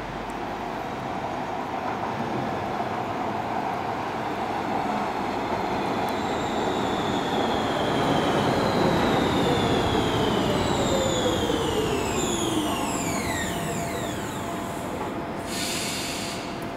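Bombardier MG2/1 metro train running on the rails. Its running noise builds to its loudest about halfway and then fades, while its electric traction motors whine in several tones that slide down in pitch. A short hiss comes near the end.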